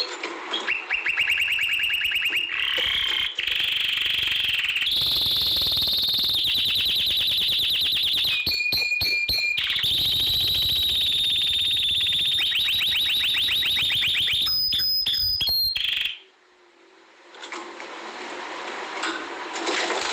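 Canary singing long, rapid trills and rolls, each held for a few seconds before switching to a new phrase. The song cuts off about sixteen seconds in, and a quieter song starts up again near the end.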